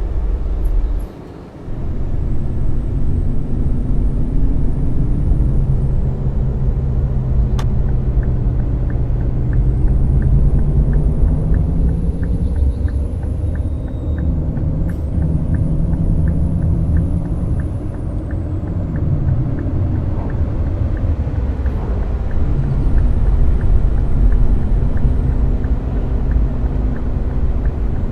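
Scania K420 double-decker coach running on the road, a steady low engine and road rumble whose pitch rises and falls with engine speed. A light ticking, about three a second, runs through the middle stretch, and the sound drops out briefly about a second in.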